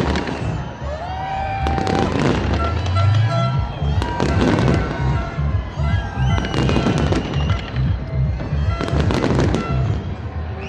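Fireworks going off in bursts about every two seconds, each a loud crackling volley, over a crowd's voices and music.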